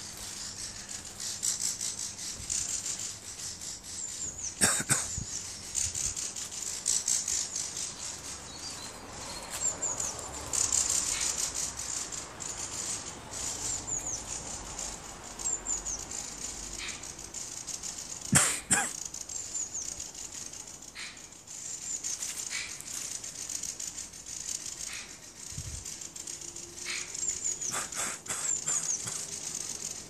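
Birds giving fast, dry rattling calls again and again while mobbing a magpie. Two sharp knocks cut across the calls, one a few seconds in and a louder one past the halfway point.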